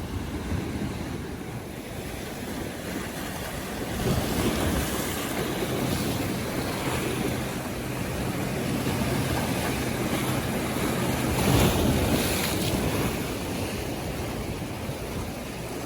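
North Sea waves washing with wind buffeting the microphone, swelling louder about four seconds in and again near twelve seconds.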